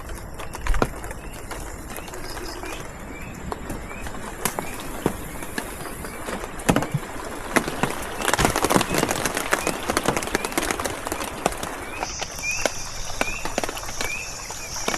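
Rain falling in forest, drops tapping irregularly and thickest about halfway through, with small repeated chirps and, from about twelve seconds in, a steady high insect buzz.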